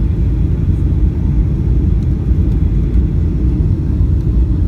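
Steady low rumble of engine and airflow noise inside the cabin of a Boeing 757-200 on final approach, with the landing gear down and flaps extended.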